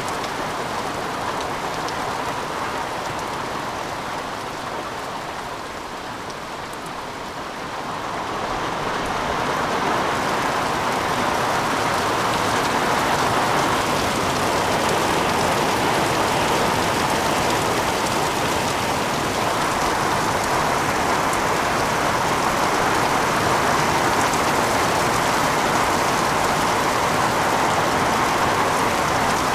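Heavy rain falling steadily, a dense even hiss. It eases a little about six seconds in, then grows heavier and holds for the rest.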